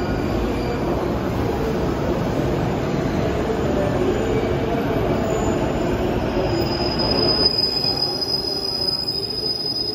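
JNR 485-series electric train rolling slowly in along the platform. About seven seconds in, a steady high squeal sets in as it brakes toward a stop.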